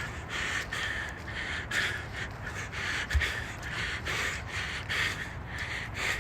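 A runner panting hard, breath after breath, while running uphill. There is a low rumble underneath and a single low bump about three seconds in.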